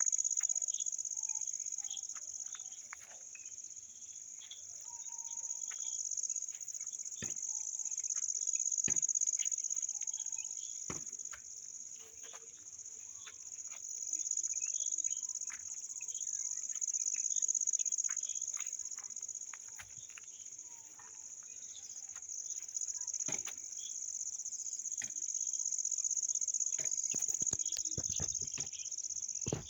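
A chorus of insects trilling in one continuous high-pitched band that slowly swells and fades every several seconds, with scattered faint clicks.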